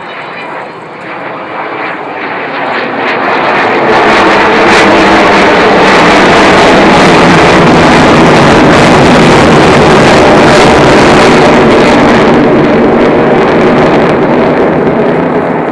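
Avro Vulcan XH558's four Rolls-Royce Olympus jet engines on a loud, close pass. The jet noise builds over the first four seconds, stays at full loudness for about ten seconds, then begins to fade near the end.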